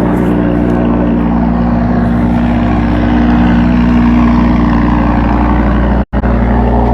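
Car engine running steadily, a loud, even engine note. The sound cuts out for a split second about six seconds in.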